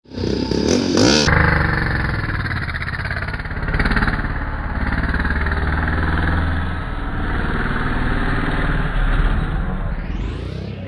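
A motorcycle engine running steadily, its note pulsing evenly. A rising sweep comes in near the end.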